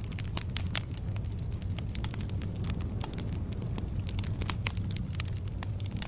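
Wood fire in a fireplace crackling, with many sharp irregular pops and snaps over a steady low rumble of burning.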